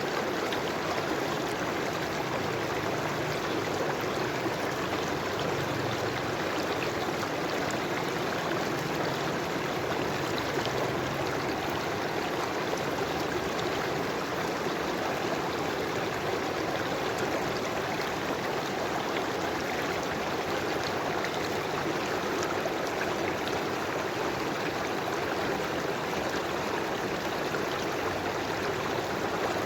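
River water flowing and trickling over stones, a steady, even rush with no breaks.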